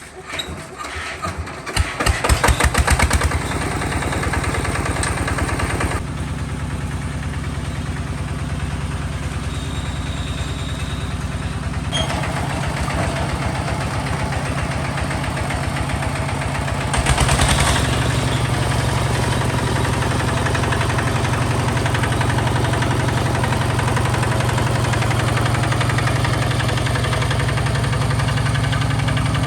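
Hinota HG Gold 155 DI hand tractor's diesel engine starting with a quick run of chugs, then running steadily. About two-thirds of the way through it runs louder and stays louder.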